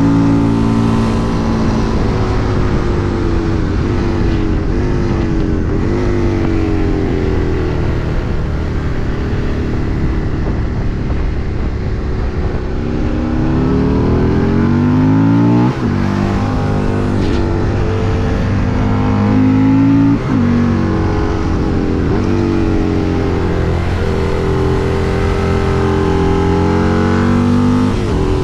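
Husqvarna Nuda 900's parallel-twin engine pulling through the gears: the pitch climbs steadily under acceleration and drops sharply at two upshifts, about two-thirds of the way through and again shortly after. Earlier the revs fall away as the bike slows.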